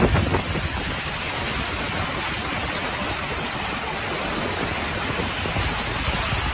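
Steady, even rushing noise of a heavy storm, wind and driving water.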